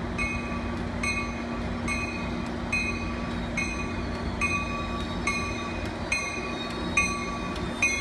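A train's bell ringing at an even pace, about one stroke every 0.85 s, over the steady hum and rumble of a diesel commuter train.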